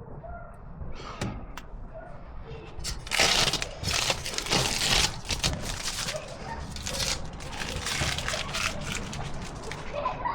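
Jobsite handling noise: a loud rustling or scraping that starts about three seconds in and lasts about two seconds, followed by scattered knocks and clicks.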